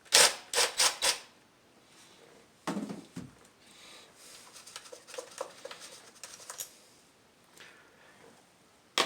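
Hand tool at work on the ignition coil's hold-down bolt: a quick run of sharp metal clicks about four times in the first second, then faint scattered ticking and rubbing, with a single click near the end.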